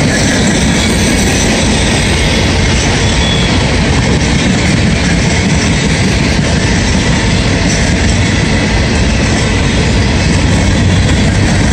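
Empty CSX hopper cars rolling past, a loud, steady rumble of wheels on rail.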